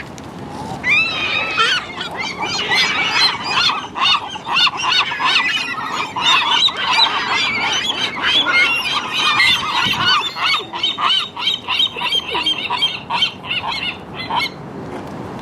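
A flock of seagulls calling over one another, a dense run of harsh overlapping squawks that stops shortly before the end.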